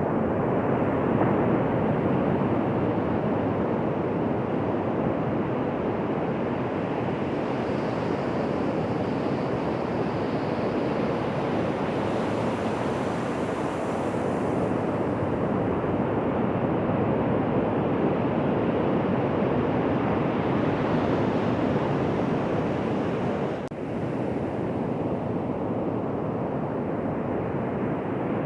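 Ocean surf breaking and washing onto a beach: a steady rushing that swells gently and briefly dips about three-quarters of the way through.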